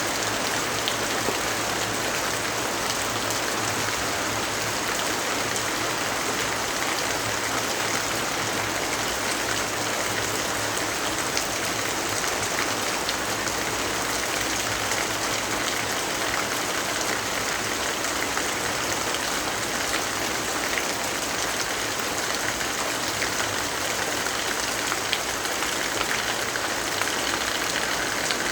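Steady rainfall: a dense, even hiss of rain with scattered small drop ticks.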